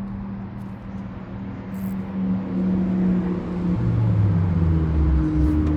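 A motor vehicle's engine running, its pitch drifting and getting louder about two seconds in.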